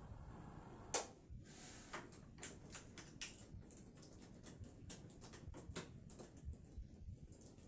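A run of light, irregular clicks and taps from objects being handled, with one sharper knock about a second in.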